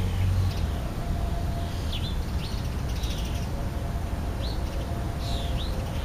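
Small birds chirping: about half a dozen short, thin, high chirps, most of them in the second half, over a steady low rumble.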